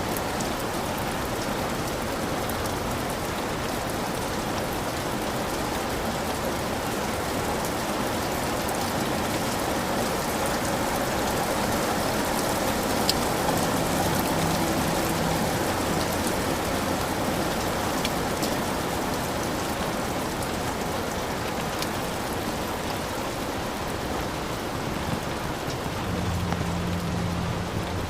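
Heavy rain falling steadily on a hut roof, with scattered drop ticks. A low rumble of distant thunder comes in about halfway through and again near the end.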